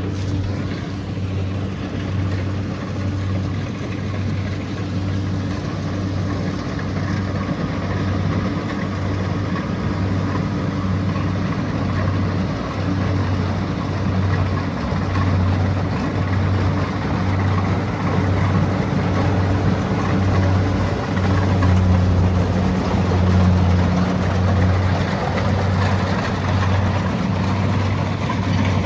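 Kubota DC70 Pro combine harvester's diesel engine running steadily under working load, with a deep, evenly pulsing drone and the clatter of the machine's moving parts. The level rises slightly in the second half.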